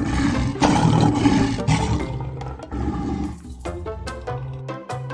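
A large animal's harsh roaring calls, lasting about the first two seconds, over background music with a steady bass line and plucked notes.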